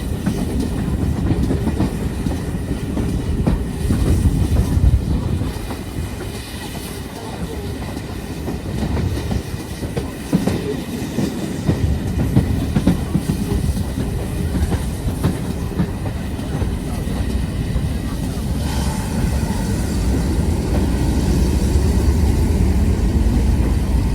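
A train running along the track: the steady rumble of railway wheels and wagons on the rails.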